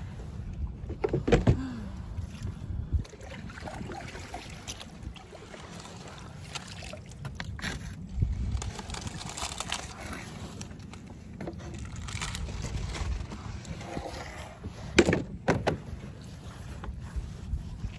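Kayak on lake water: water movement and knocks against the hull, with the loudest knocks about a second in and twice around fifteen seconds in, while the magnet is stuck on plant roots.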